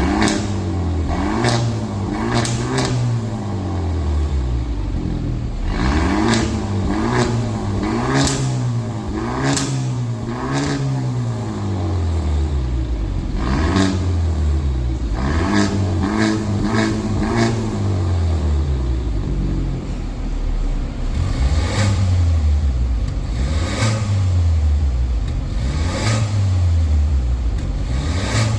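Genesis G70 2.0-litre turbo four-cylinder with a custom JSR valved exhaust, revved in repeated quick blips, the pitch rising and falling each time. The blips come in several runs with short gaps, and sharp cracks sound as the revs drop.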